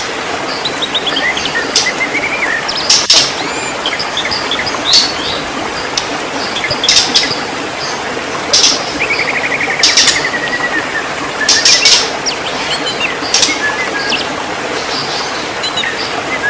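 White-rumped shama singing a varied song of short, sharp loud notes and whistled phrases, with a fast trill about halfway through, over a steady hiss.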